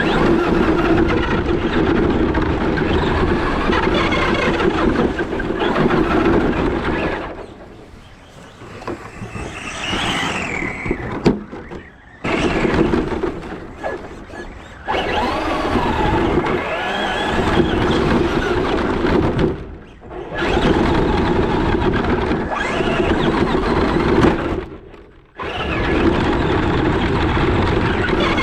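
Electric RC short-course truck being driven hard, its motor whining up and down in pitch with the throttle over the noise of the running gear and tyres. The sound drops away briefly several times, about 8, 12, 20 and 25 seconds in.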